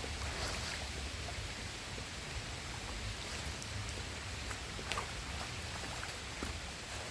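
Steady rain falling, an even hiss with scattered sharp drops ticking close by, one more distinct tick about five seconds in.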